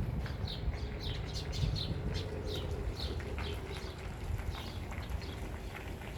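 Birds calling with quick, short chirps that drop in pitch, about three a second, the calls overlapping.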